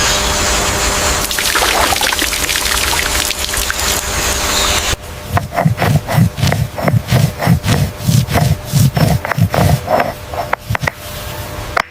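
A steady rushing hiss that cuts off about five seconds in. It gives way to a regular run of dull knocks, about three a second, for some six seconds, like a tool striking wood or food on a board.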